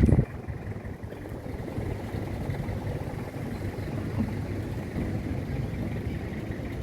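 City street traffic: a motor vehicle's engine close by, loud at the very start and dropping off sharply a fraction of a second in, then a steady low rumble of traffic.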